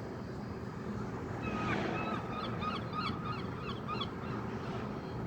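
Gulls calling: a rapid run of short, repeated cries from about a second and a half in until about four seconds, over a steady background noise.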